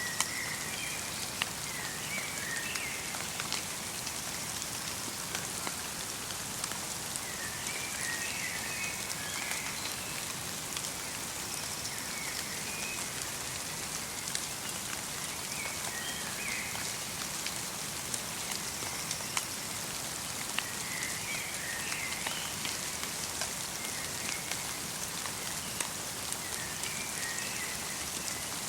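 Steady light rain pattering, with individual drops ticking. A small bird's short chirping phrases recur about every four to six seconds.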